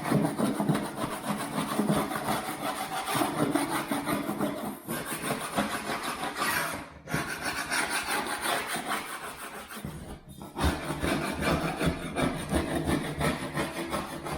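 Scraper blade scraping over a dried plaster skim coat in quick, repeated strokes, knocking off loose edges and raised bits before the next skim, with brief pauses between passes.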